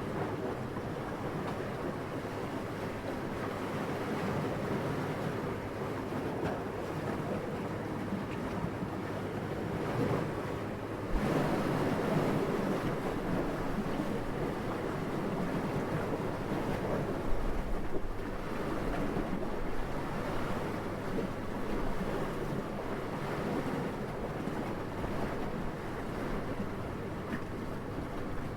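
Steady, gentle wind blowing, rising in a gust about eleven seconds in.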